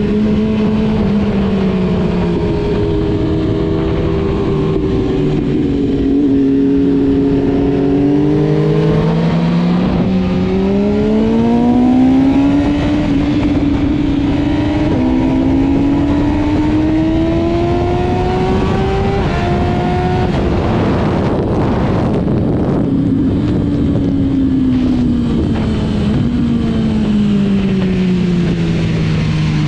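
Motorcycle engine running hard, its pitch climbing in steps through the first two-thirds, then dropping sharply about twenty seconds in. Over the last several seconds it falls away steadily as the bike slows, over a constant rush of noise.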